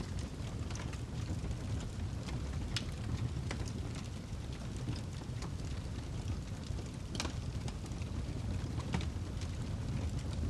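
Wood fire burning in a fireplace: irregular sharp crackles and pops from the burning log over a steady low rumble of the flames, with two louder pops about 3 and 7 seconds in.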